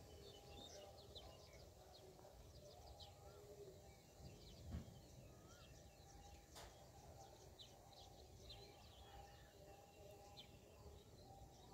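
Faint outdoor ambience with many small birds chirping in short, scattered calls. There is a soft low thump about halfway through.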